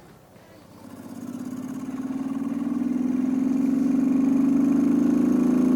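Motorcycle engine pulling away under throttle: it grows louder from about a second in and climbs slowly in pitch, then holds a steady, loud note. The bike is pulling out of loose dirt where its rear wheel almost dug in.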